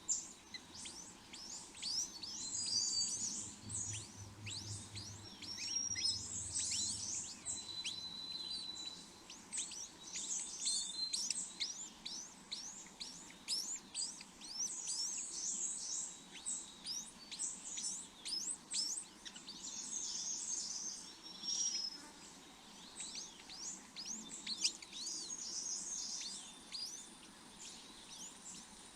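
Small birds chirping: a dense, continuous run of quick, high-pitched chirps, with a few brief thin whistles mixed in.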